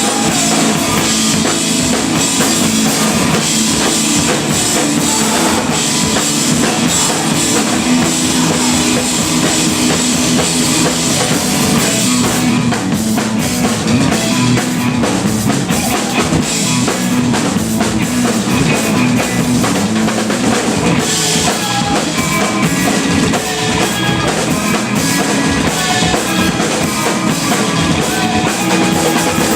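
Live rock band playing loudly, a drum kit with kick drum driving it under guitar.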